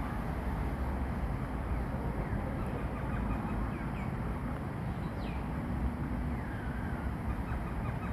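Outdoor ambience: a steady low rumble with faint high chirps over it, including a clear falling chirp about five seconds in.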